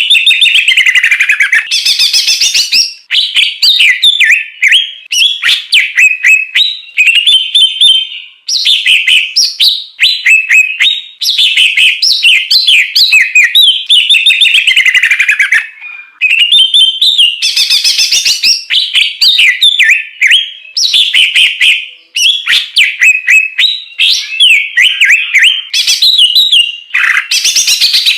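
Loud, continuous songbird song: rapid, varied chirps, trills and whistled phrases that follow one another with only short pauses.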